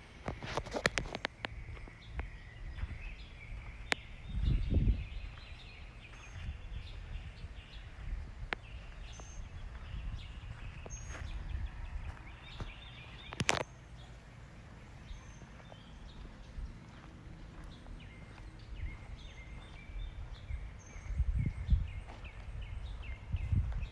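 Outdoor ambience with faint birds chirping, scattered clicks, and a few brief low rumbles on the microphone.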